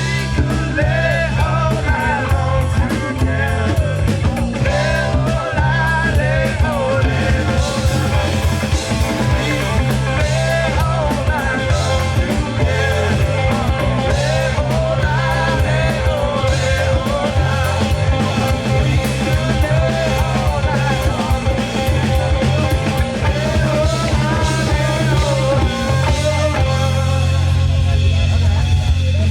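Live rock-funk band playing: electric guitar, bass and drum kit, with a wavering melodic line over a steady bass. Near the end the drum hits thin out under a held low bass note.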